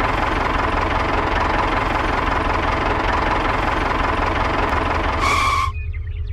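Mini tractor's small motor running steadily with a fast rattle. It stops abruptly near the end, just after a brief steady tone.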